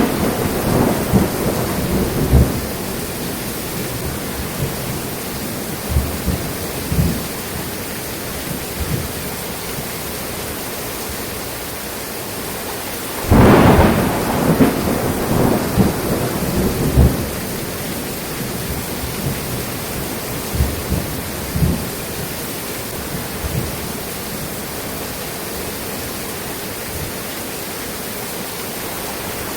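Steady heavy rain in a thunderstorm. About halfway through a loud thunderclap breaks in and rolls on as rumbling for several seconds, and low thunder rumbles fade out at the start and recur faintly in between.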